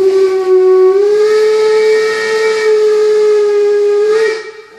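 Steam locomotive whistle blown in one long blast of about four seconds, its pitch rising slightly about a second in, then cutting off.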